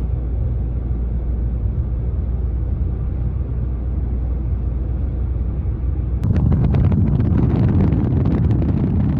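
Steady low road rumble from a car in motion. About six seconds in, a louder rushing noise cuts in suddenly: wind buffeting the microphone.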